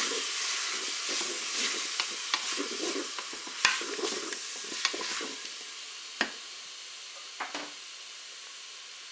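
Chicken pieces, onion and curry powder sizzling in oil in a Moulinex Cookeo multicooker's bowl on its browning setting, stirred with a wooden spoon that scrapes and knocks against the bowl with several sharp clicks. The stirring dies away after about six seconds, leaving the steady sizzle, a little quieter.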